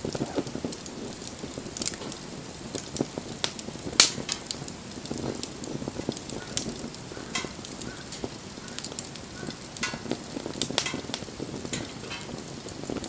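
Wood fire crackling, with irregular sharp pops over a steady hiss; one louder pop about four seconds in.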